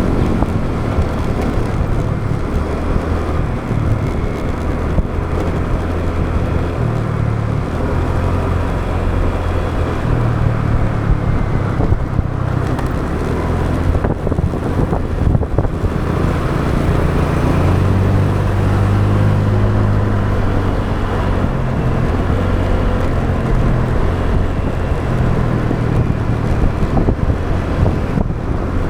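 Motorbike engine running on the move through traffic, its low drone rising and falling with speed, over steady road noise.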